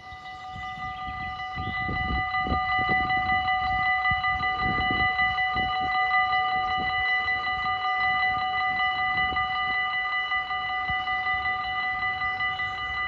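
Level-crossing warning bells ringing in a fast, even run of strokes, growing louder over the first two seconds and then holding steady: the crossing's warning that a train is coming.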